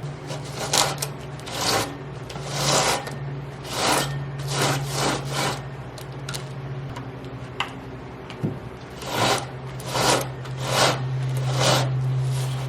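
Chainsaw chain being pulled by hand around its bar in a series of about ten short rasping drags at uneven intervals. The chain is stiff on the bar after long storage.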